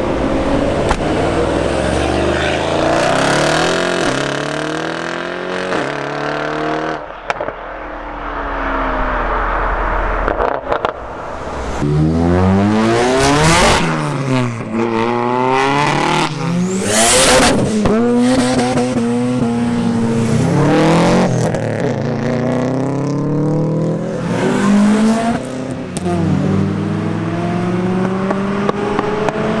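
Modified performance cars' engines revving and accelerating away one after another, their pitch climbing and dropping again and again through throttle blips and gear changes, loudest in the middle stretch.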